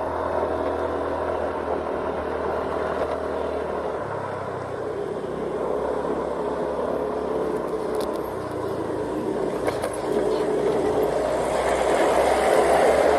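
Vehicle engine and road noise heard from on board while driving. The engine note shifts about four seconds in and grows louder near the end.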